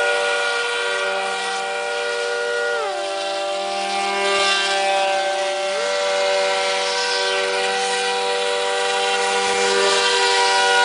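Two radio-controlled model speedboat motors running together with a high, steady whine; one drops in pitch about three seconds in as it is throttled back, then climbs back up near six seconds.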